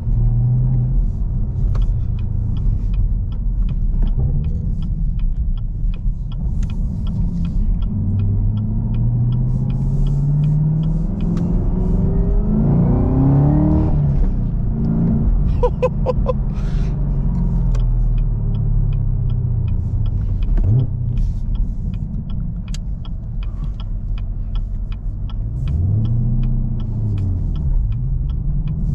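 Camaro ZL1's supercharged 6.2-litre V8 heard from inside the cabin while driving, its pitch rising and falling as it pulls through the gears. A light, regular ticking runs through much of it.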